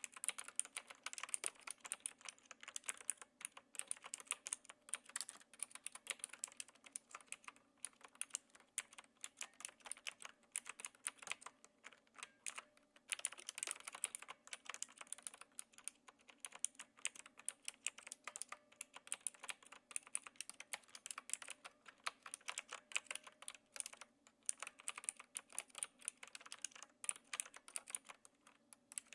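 Steady, fast typing on a Knewkey Rymek typewriter-style mechanical keyboard with clicky blue switches: a dense run of sharp key clicks, with a brief pause now and then.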